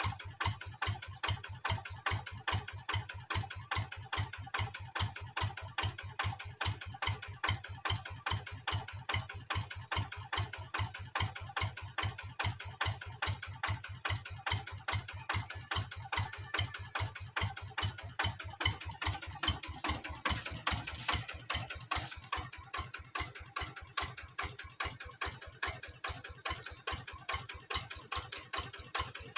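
Kubota engine idling at an even, slow beat of about three pulses a second. A brief hiss comes in about twenty seconds in.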